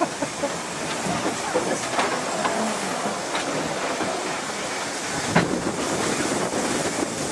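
Narrow-gauge steam train running, heard from an open-sided passenger carriage: the wheels clatter over the rails under a steady rumble, with scattered knocks and one sharper knock about five seconds in.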